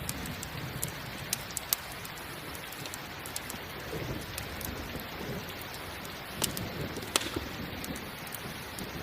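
Steady rain with a wood campfire crackling, its sharp pops standing out above the rain, the loudest about two seconds in and again about seven seconds in.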